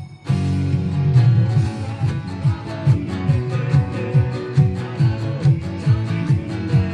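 Acoustic guitar strummed in a steady rhythm, with a low thump on each beat. The playing drops out for a moment at the very start, then picks up again.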